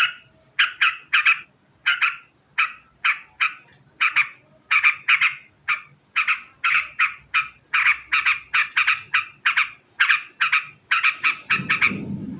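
Yellow-vented bulbul (trucukan) giving its long, fast chattering call: short harsh notes repeated about two to three a second, often in quick pairs and runs that speed up near the end, with a low rumble underneath in the last second.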